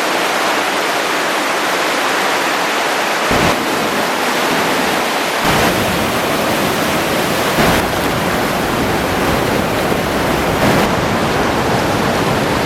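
Creek water rushing over rocks, a steady loud hiss; a deeper rumble joins about halfway through.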